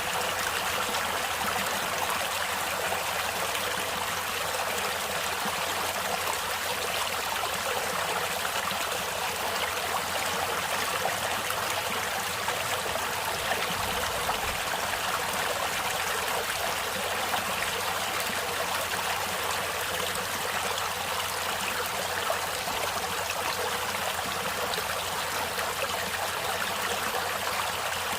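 Stream water flowing and trickling steadily over rocks, a constant splashing rush with no break.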